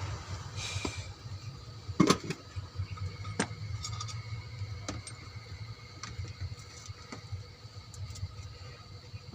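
Hand tools clinking and knocking against metal parts, a handful of sharp separate strikes with the loudest about two seconds in, over a steady low rumble.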